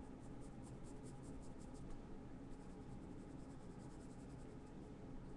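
Faint sketching on paper: a drawing tool making a quick run of short scratching strokes, with a brief pause about two seconds in.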